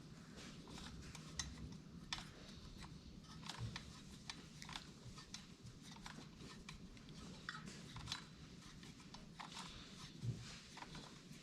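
Faint, irregular light clicks and taps of a hand tool and small metal parts, as the muffler bolts on a Stihl 028 chainsaw are run in and tightened.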